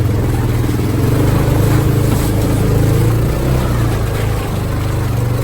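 Motor vehicle engine running steadily under way, with a continuous low drone.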